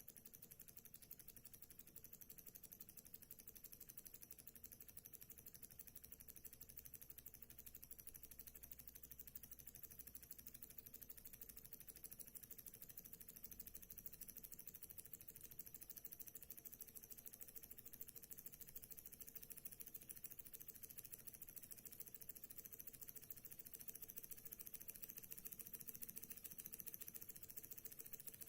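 Small Stirling engine running smoothly, its moving parts making a faint, fast, even mechanical ticking.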